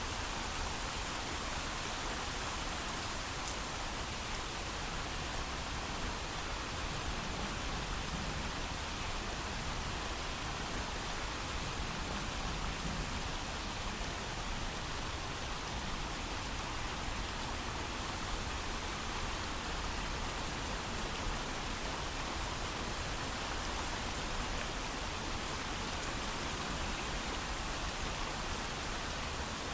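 Steady heavy rain falling, a dense even hiss of many drops with no thunder.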